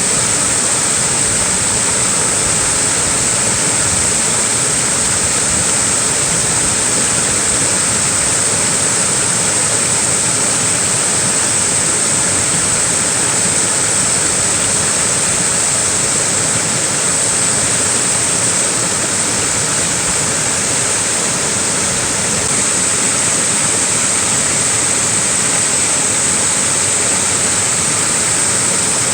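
Small waterfall pouring steadily, an even, unbroken rush of falling water.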